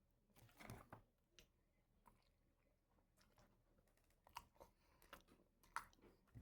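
Very faint, sparse chewing and mouth sounds from eating a frosted honey bun: a short soft cluster about a second in, then a few isolated clicks near the end.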